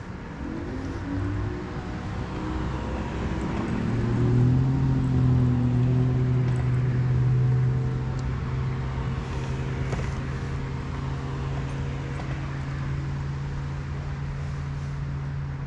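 A motorboat's engine running. Its pitch climbs over the first few seconds, it is loudest a few seconds in, and then it holds at a steady drone.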